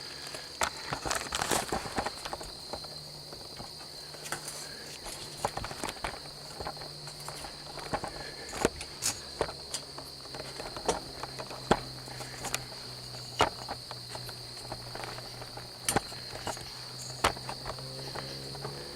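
Footsteps of a person walking, uneven crunching steps, over a steady high-pitched drone of insects calling.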